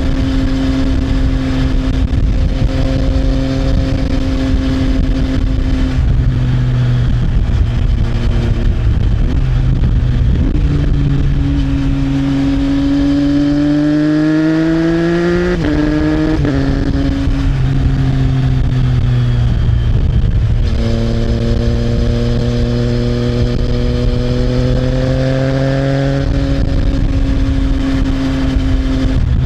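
Triumph Trident 660's inline three-cylinder engine through an Arrow exhaust, under way. The engine note holds steady, then the revs climb and fall away sharply twice in quick, clutchless quickshifter upshifts about halfway through. It climbs again and drops near the end.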